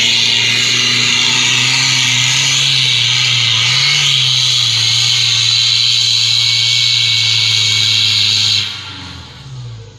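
Pickup truck engine held at high revs under load, with a loud steady hiss over it; it drops off suddenly about a second before the end.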